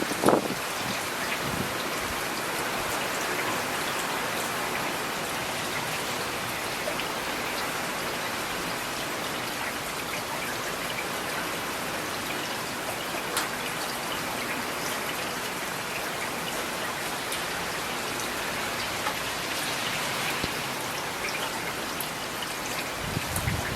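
Steady rain, with individual raindrops pattering and ticking on a surface. A short low thump comes just after the start, and a low rumble near the end.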